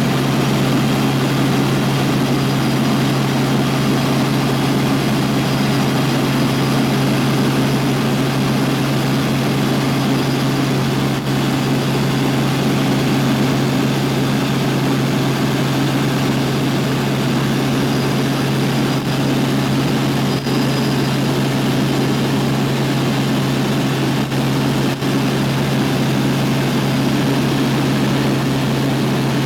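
Helicopter in flight: a steady, unchanging drone of rotor and engine, a constant low hum under a wide rushing noise.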